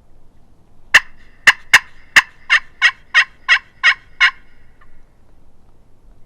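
Turkey yelping: a loud, close run of about ten notes, the first few sharp and clipped, the rest fuller and evenly spaced about three a second.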